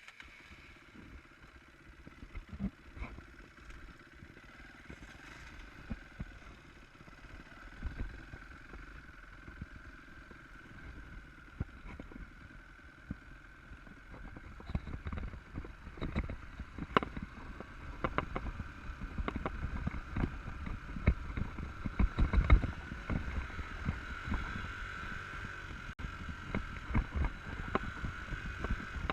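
Enduro motorcycle riding over rough off-road ground: a steady engine note under frequent knocks and rattles from the bumps, getting louder over the second half.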